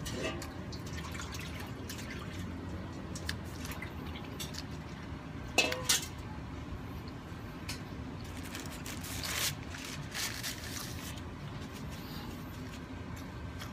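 Close-up mouth sounds of a man chewing food with his mouth closed: soft wet clicks and smacks, with a louder pair of smacks about six seconds in.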